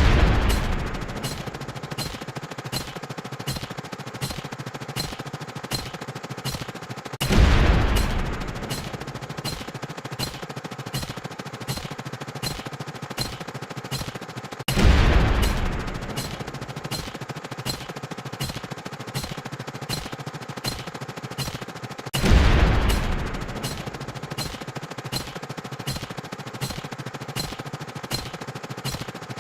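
Explosion sound effect booming and dying away four times, about every seven seconds, over a rapid, steady run of sharp sound-effect hits about two a second.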